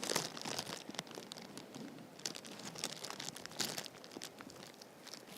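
Plastic food freezer bag crinkling and rustling as it is handled over a camera, in irregular crackles that come thickest near the start and again about three and a half seconds in.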